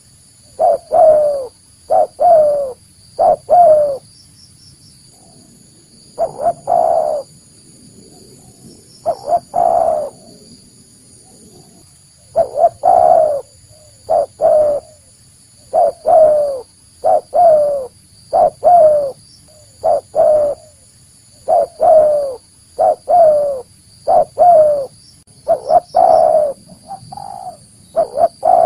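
Spotted dove (tekukur) cooing: short phrases of a few low coos each, repeated every second or two, with a few longer pauses between series.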